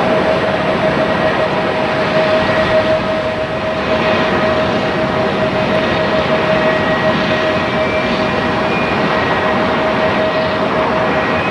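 Jet airliner engines running: a steady, loud rush of noise with one steady tone held over it.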